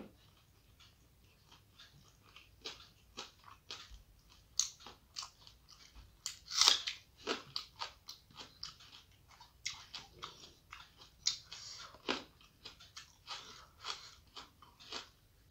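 Close-up mouth sounds of someone chewing a mouthful of rice and fish curry by hand: many short, irregular wet clicks and smacks, the loudest a little past the middle.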